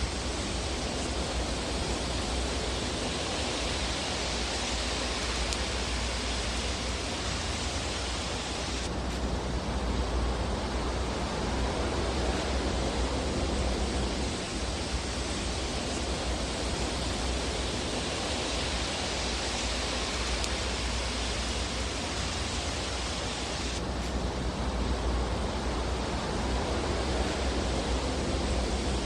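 Steady hiss over a low rumble from a fireplace fire ambience track, with no distinct crackles standing out. The texture changes abruptly about nine seconds in and again near the end, like the seams of a looped recording.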